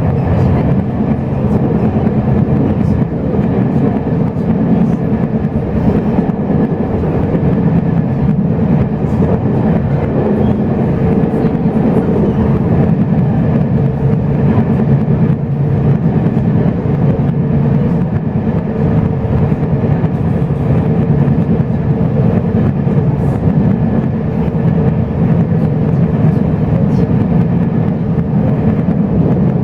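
Steady running noise of a moving Chu-Kuang Express passenger train heard from inside the coach: a dense, even low rumble of wheels on rail with faint ticks.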